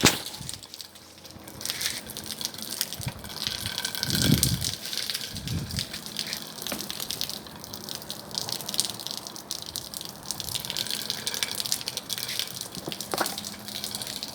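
Bonfire burning, a steady rushing hiss with many sharp crackles and pops throughout. Two low thumps come about four and five and a half seconds in.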